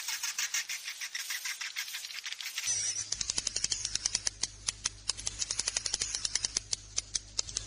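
Swiftlet roosting-call recording (suara inap walet), the kind played to draw swiftlets to roost: a dense, rapid chittering of high clicks and chirps. About two and a half seconds in, the clicks turn sparser and sharper, and a low steady hum and a faint high whistle come in under them.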